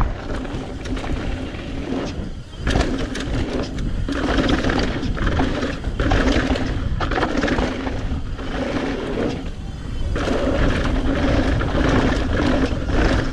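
Wind buffeting the microphone and mountain-bike tyres rolling over a dirt jump trail, with a steady hum that comes and goes.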